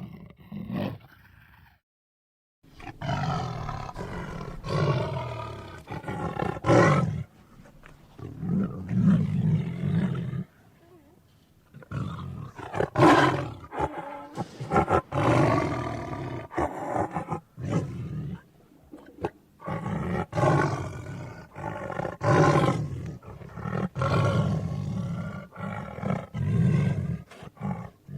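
Tiger roars and growls, a film sound effect, coming one after another with short pauses between them.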